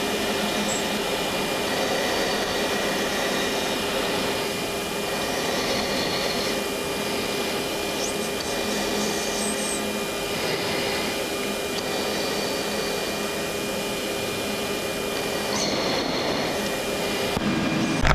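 Steady in-flight cockpit noise of an F-16D Fighting Falcon: an even hiss of airflow and jet engine with a few steady whining tones over it.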